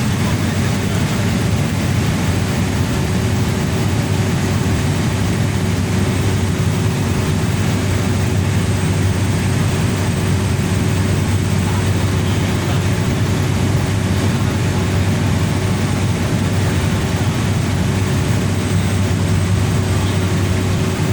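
Cessna Grand Caravan 208B's single PT6A turboprop engine and propeller heard inside the cabin, making a steady loud drone with a low hum and a steady higher tone over rushing noise.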